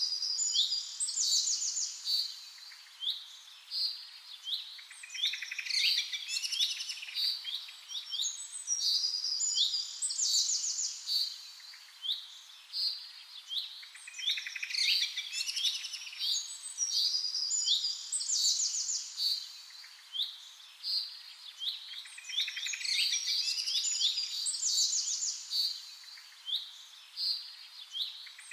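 Zebra finch song: a short phrase of quick chirping notes, repeated about every four seconds.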